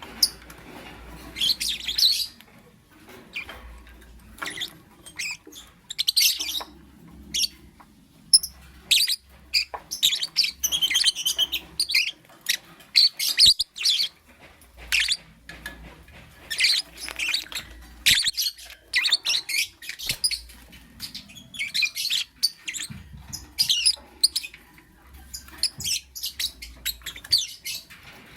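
Lovebird chirping: quick runs of short, sharp, high-pitched chirps in clusters, with brief pauses between them.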